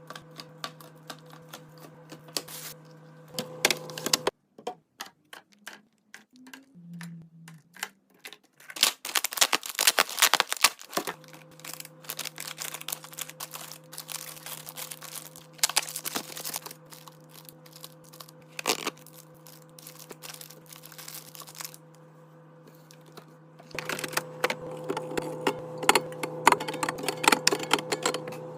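Rapid clicks, taps and clatter of plastic containers, lids and packaging being handled and set down during restocking, over a steady low hum.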